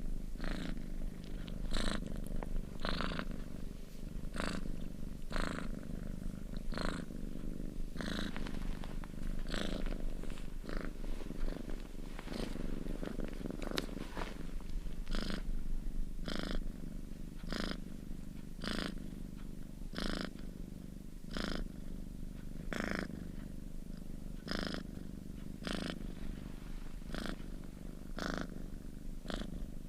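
A kitten purring steadily close to the microphone, with a breathy pulse a little more than once a second as it breathes in and out.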